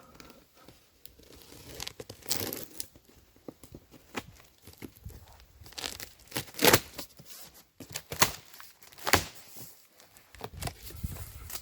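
Cardboard shipping box being opened: packing tape and cardboard tearing, with packaging crinkling, in irregular strokes. The loudest tears come a little past halfway and again about three-quarters of the way through.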